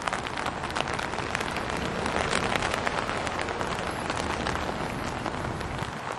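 Heavy tropical-storm rain, a dense steady patter of drops striking close to the microphone, over a low wind rumble.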